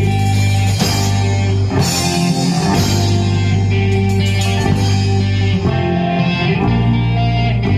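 Rock band playing an instrumental passage: electric guitars over bass and a drum kit with crashing cymbals.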